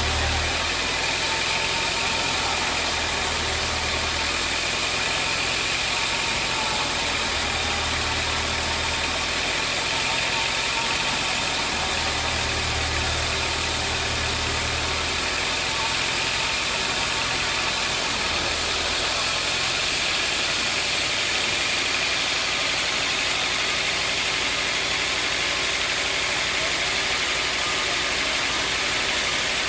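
Sawmill machinery running steadily with a continuous mechanical din. A low hum swells and fades several times, then drops away about two-thirds of the way through.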